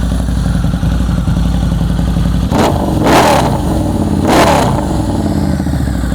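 2009 Harley-Davidson V-Rod Muscle's liquid-cooled 1250cc V-twin idling with a deep sound through an aftermarket 2-into-1 header exhaust. It is revved in two quick throttle blips, the first a few seconds in and the second about a second later, then settles back to idle.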